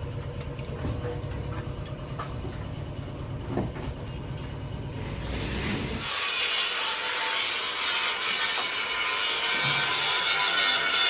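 Workshop machine noise: a low rumble for about the first six seconds, then a sudden switch to a louder, harsh high noise with steady tones running through it.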